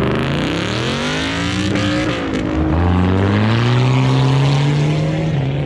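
Car engine revving hard as a car accelerates away. The pitch dips early, then climbs sharply about two and a half seconds in and holds high.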